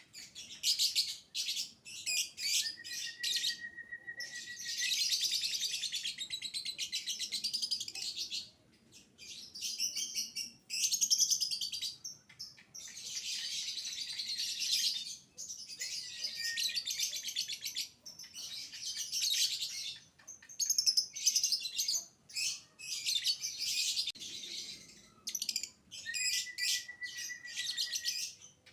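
Young lovebird 'ngekek' chattering: long, rapid, high-pitched chatter in repeated bouts of a few seconds with short breaks between them. A thin steady note sounds briefly under it twice, once early and once near the end.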